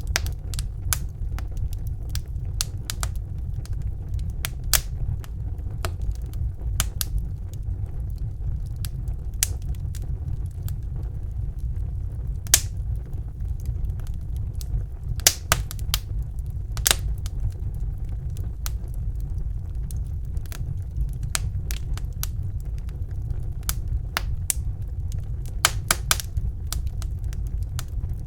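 Wood fire burning in a fireplace: irregular sharp crackles and pops over a steady low rumble of the flames, with a handful of louder pops.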